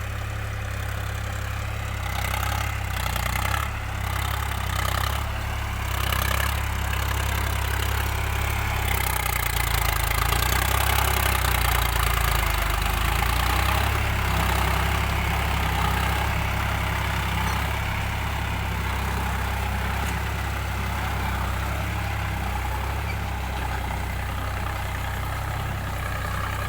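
Diesel engine of a VST Shakti Viraaj 9045 tractor running steadily. It grows louder for several seconds about a third of the way in, then eases back.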